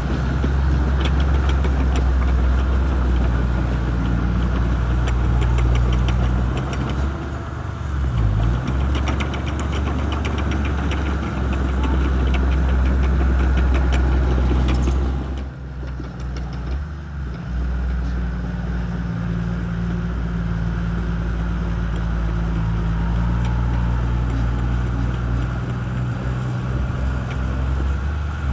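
Shantui crawler bulldozer's diesel engine running steadily as it works. Its level dips briefly a little past halfway, then picks up again.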